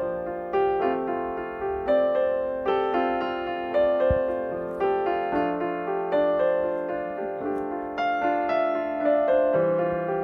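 Background music: a slow piano piece, notes struck about every half second and left to ring.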